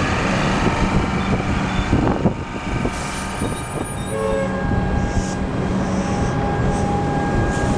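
Comeng electric suburban train running along a station platform: a steady rumble of wheels on rail with a low motor hum, dipping briefly a little over two seconds in.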